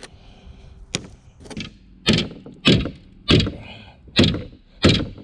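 A series of hard knocks and blows on a stuck steering wheel, each with a short ringing tail, coming about every two-thirds of a second from about two seconds in as it is forced loose.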